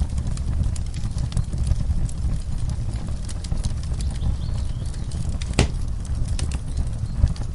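Wood fire in a fireplace crackling, with irregular sharp pops and one louder pop about five and a half seconds in, over a steady low rumble.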